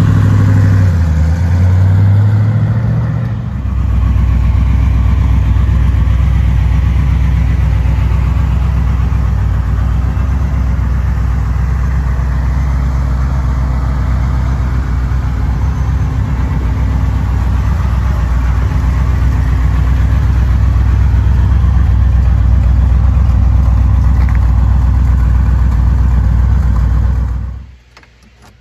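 1987 Chevrolet Corvette race car's 5.7-litre V8 running: it is revved a few times, rising and falling in pitch, then idles steadily. The engine sound stops abruptly near the end.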